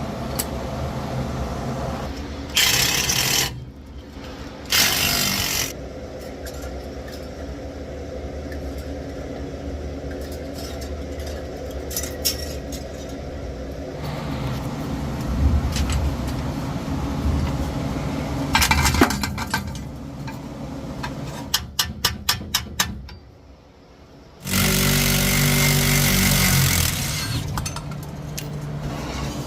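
Tools at work on exhaust bracket bolts: two short loud bursts of a power tool early on, a quick run of clicks later, and a longer loud burst near the end, over a steady low hum.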